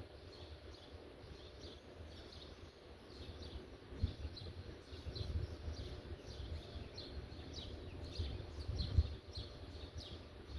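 A small bird chirping over and over, short falling chirps about twice a second, over a low rumble with two dull knocks, about four and nine seconds in.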